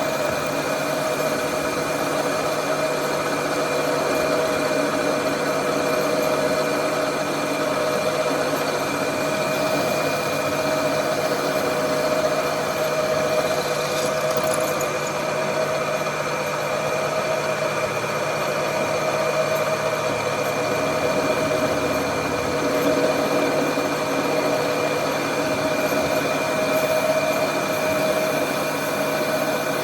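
A workshop machine running steadily with a constant, even hum and whine that does not change in speed.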